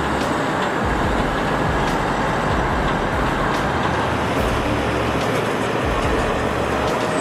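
Kenworth heavy-haul truck running steadily under load, a continuous diesel rumble mixed with road noise.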